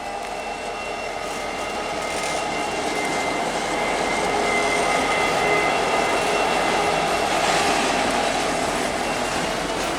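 Freight train rolling past, a steady rumble and rattle of its cars that grows louder toward the middle. Thin high ringing tones from the wheels on the rails sound over it.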